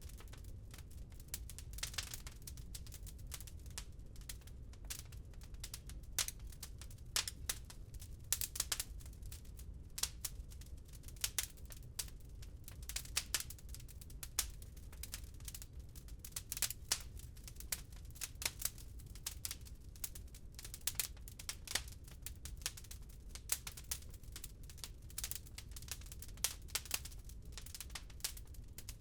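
Wood fire crackling in a fireplace: dense, irregular sharp crackles and pops, some louder than others, over a steady low rumble.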